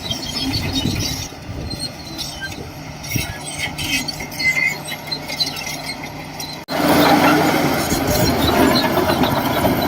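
Shantui DH17C2 crawler bulldozer working: diesel engine running under load with the squeal and rattle of its steel tracks. The sound breaks off abruptly about two-thirds of the way through and comes back louder.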